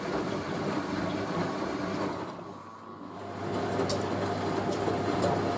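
Hoover A3060 Electronic 1100 washing machine running with a steady hum shortly before its final spin. The sound drops away briefly about halfway through, then picks up again.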